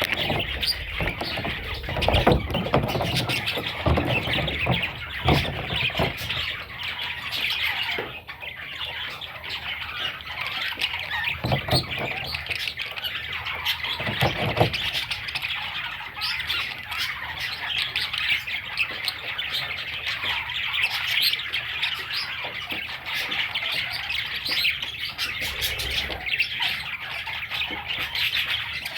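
Budgerigar chicks chirping and squawking, many calls overlapping in a continuous chatter, with a few dull low thumps in the first half.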